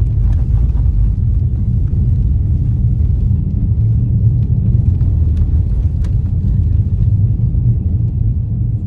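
Steady low rumble of a car's tyres and drivetrain heard from inside the cabin while driving on a snow-covered road, with a few faint ticks.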